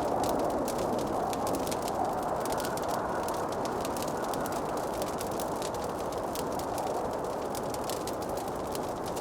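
Wood fire crackling, with many small, quick pops over a steady low rushing hiss.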